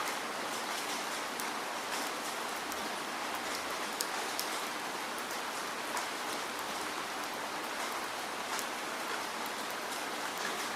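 Steady rain falling, an even hiss with many scattered small drop ticks and one slightly louder drop about four seconds in.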